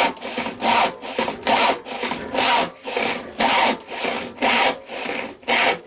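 Sandvik No 277 handsaw cutting wood with steady back-and-forth strokes, about two a second, louder and quieter strokes alternating.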